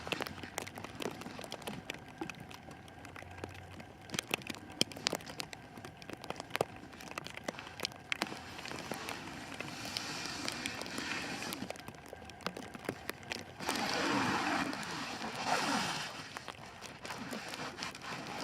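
Plastic wrap (saran/pallet wrap) crackling and rustling as it is pulled off the roll and stretched around the shelter frame. Many small sharp crackles, with a few longer, louder rustling swells.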